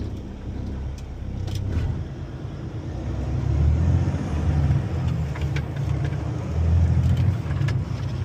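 Tractor-trailer's diesel engine running with a low, steady rumble as the truck drives through a roundabout, growing louder about three seconds in as it pulls harder. A few light clicks in the first two seconds.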